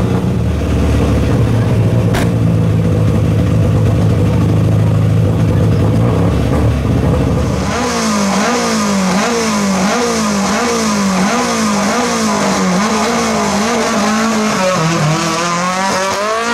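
Rally car engine running at a steady low idle, heard from inside the cabin. From about eight seconds in, the engine is revved up and down over and over at the start line, then it pulls away near the end.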